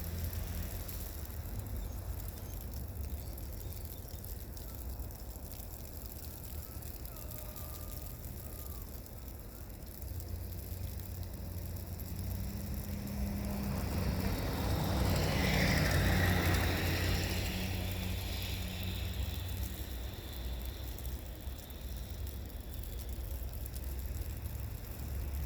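Steady low road rumble, with a vehicle's tyre noise on snow-covered road swelling as it passes and fading away about two thirds of the way in.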